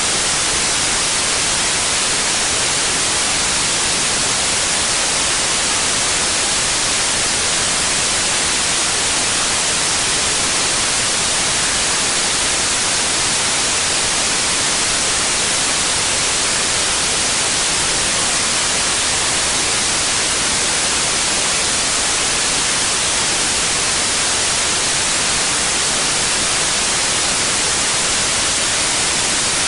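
Steady electronically generated white noise, an even hiss strongest in the treble and unchanging throughout.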